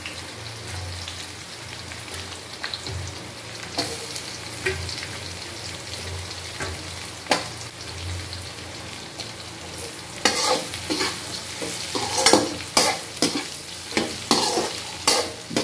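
Sliced onions, garlic and green chillies sizzling in hot oil in a metal kadhai, with a steady frying hiss. From about ten seconds in, a slotted metal spoon repeatedly scrapes and clacks against the pan as the onions are stirred.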